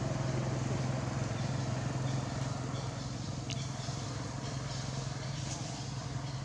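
A motor engine running steadily with a low, even hum, and a faint click about halfway through.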